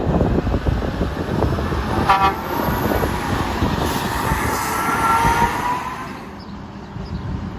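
A heavy truck driving past with a steady engine and tyre rumble, giving a short horn toot about two seconds in; fainter held tones follow around five seconds before the rumble fades away.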